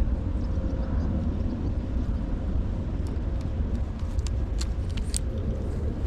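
Wind buffeting the microphone: a steady low rumble, with a few faint clicks over it.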